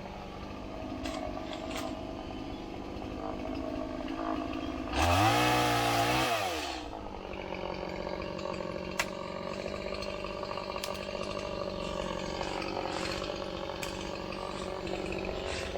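Chainsaw engine running, revved up hard about five seconds in for roughly two seconds, with the pitch rising then falling, then settling back to a steady lower running. This fits a cut being made from the top, the tension side, rather than from the bottom, the compression side, where the bar would be pinched.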